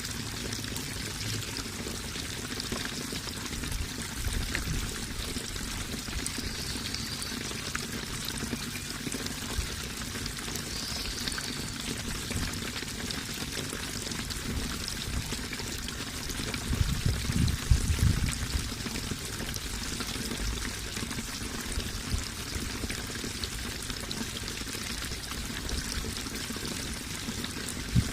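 Running water flowing and splashing steadily, with a brief louder low rumble a little past the middle.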